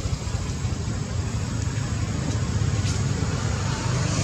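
Road traffic: vehicle engines running and passing, a low rumble that grows again near the end, with a faint steady high-pitched tone underneath.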